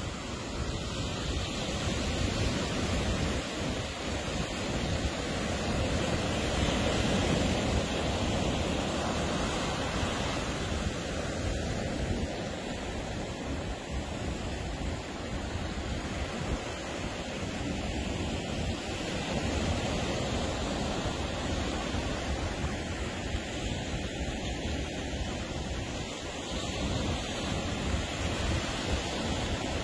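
Ocean surf washing onto a beach, a steady rushing noise that swells and eases over several seconds as waves break.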